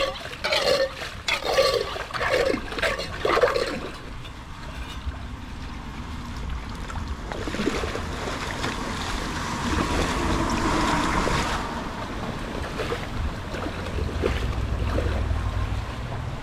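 Water rushing through a cleared culvert, swelling to a louder steady rush in the middle, with a series of short splashy sounds in the first few seconds and a low rumble toward the end.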